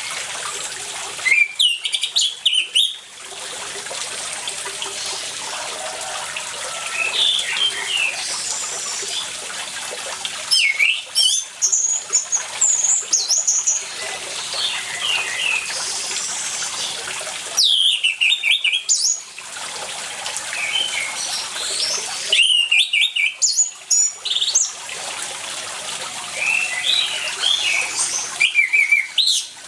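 Orange-headed thrush (anis merah) singing in loud bursts of rapid, varied phrases, five times, with fainter calls between. Under it runs a steady sound of running water.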